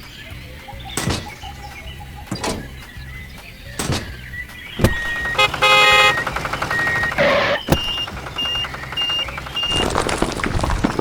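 A small motor hums low with a sharp knock about every second and a half. Midway a loud burst of electronic tones sounds, followed by four short beeps about half a second apart.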